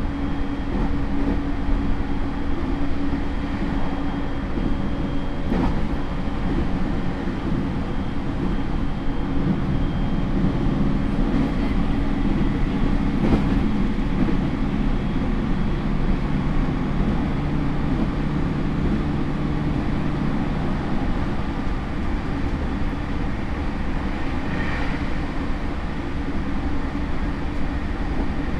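Interior running sound of a JR East E231 series commuter train motor car with a Hitachi IGBT inverter: steady rumble of wheels on rail with the traction motor and inverter hum under it, and a couple of faint knocks.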